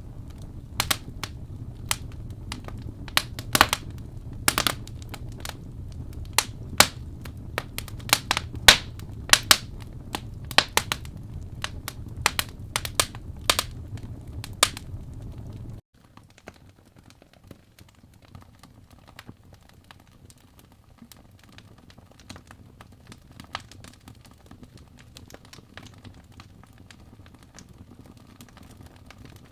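Wood fire crackling, with frequent sharp pops over a steady low rumble. About halfway through, the rumble cuts off suddenly, leaving a much quieter bed with only a few faint crackles.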